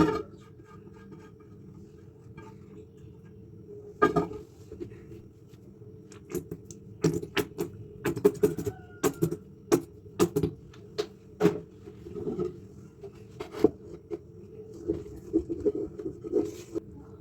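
A run of irregular sharp clicks and knocks, sparse at first and then coming thick and fast from about six seconds in, over a steady low hum.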